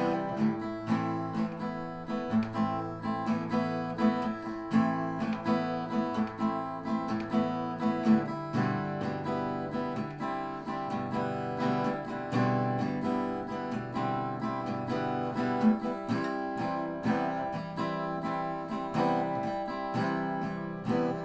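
Acoustic guitar strummed in a steady rhythm, chords ringing, with no singing: an instrumental break in a song.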